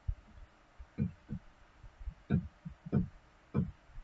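Dull, low computer mouse clicks, about six at irregular spacing, picked up by a desk microphone.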